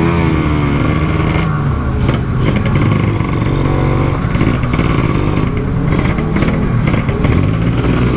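Motorcycle fitted with a Kawasaki Ninja 150 two-stroke single engine and an aftermarket exhaust, running on the move. The engine's pitch rises and falls a little as the throttle is worked.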